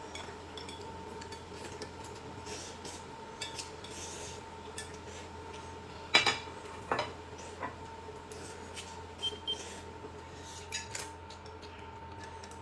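Dishes and cutlery clinking: scattered light clicks, with two louder clinks a little past halfway.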